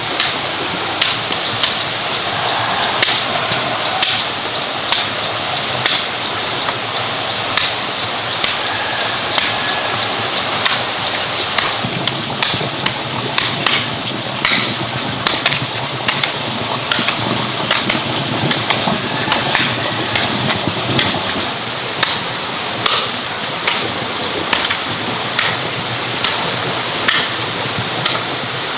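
Repeated sharp knocks, irregular, about one or two a second, over a steady rushing hiss.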